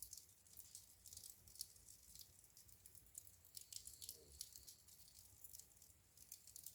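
Wood fire crackling faintly: irregular small snaps and pops over a low rumble of the burning.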